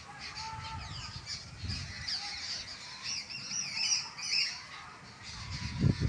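A group of birds calling and chattering in a tree, with quick chirps and, about three seconds in, a run of wavering, warbling calls. A low rumble runs underneath and grows into loud low thumps near the end.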